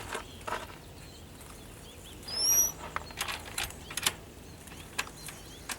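Birds held in a trap fluttering and scuffling as they are handled, with scattered sharp clicks and rattles. A short rising chirp comes about two and a half seconds in.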